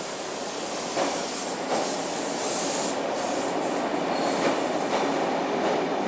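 Sydney electric commuter train running past a platform: a steady rumble that grows louder, with a few clicks of wheels over rail joints and a high wheel squeal about two seconds in.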